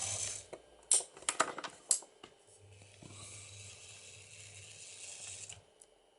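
Mainline Railways OO gauge 2251 Class model locomotive running on the track with a faint steady motor hum and wheel noise. A few sharp clicks come between one and two seconds in, and the running sound stops shortly before the end.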